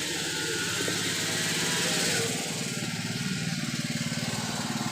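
Small petrol/gas generator engine running steadily with an even, fast pulse. A brighter hiss rides over it for the first two seconds, then eases off.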